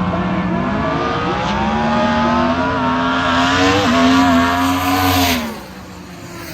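Car engine revving and held at high revs for several seconds, its pitch climbing early on, with a short blip near the middle. It drops off suddenly about five and a half seconds in.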